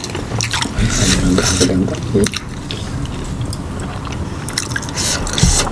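Close-miked mouth sounds of a person eating: chewing, biting and wet smacking clicks.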